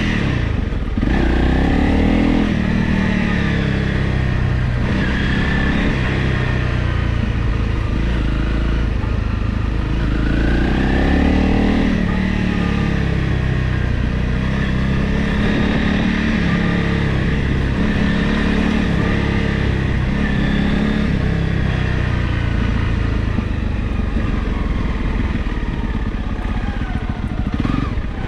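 Honda CRF Rally's single-cylinder engine running under way, its revs rising and falling again and again as the bike is ridden off-road.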